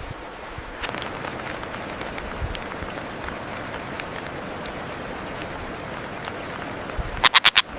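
Steady hiss of rainforest ambience with faint scattered ticks. Near the end comes a quick run of about five loud, sharp notes from a bird.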